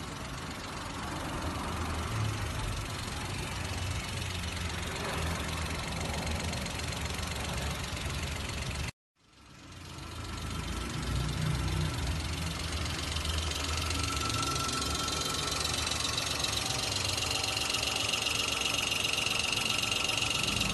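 Daihatsu Ayla 1.0's three-cylinder petrol engine idling steadily with the bonnet open, in two takes split by a brief cut about nine seconds in. A steady high tone joins in over the later part.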